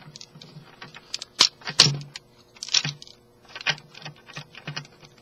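Plastic parts of a Transformers action figure clicking and rattling as they are folded and snapped into place during transformation: an uneven run of light taps with a few sharper clicks.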